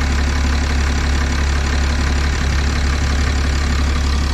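6.7-liter Cummins turbo-diesel inline-six idling steadily. The engine is suspected of having worn factory injectors at about 859,000 miles.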